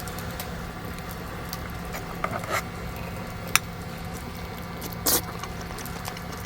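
A few light clicks and knocks, like utensils and dishes handled during a meal, over a steady low hum and background noise; the loudest knock comes about five seconds in.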